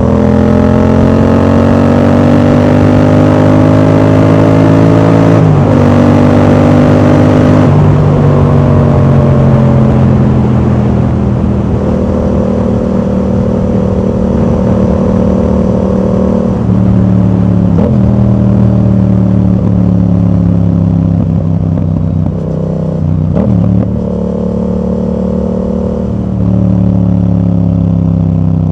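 Yamaha MT-07's parallel-twin engine through an exhaust fitted with a dB killer, running under way: the pitch climbs steadily for the first few seconds as it accelerates, then breaks and steps several times, as at gear changes, with steadier stretches of running in between.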